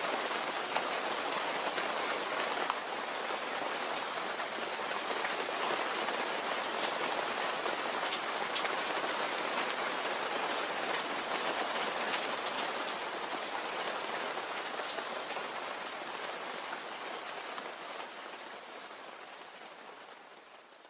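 Steady rainfall with scattered sharp drop hits, fading out gradually over the last several seconds.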